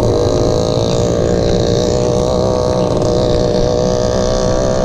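Vehicle engine running at a steady speed while under way, a constant drone over wind and road rumble.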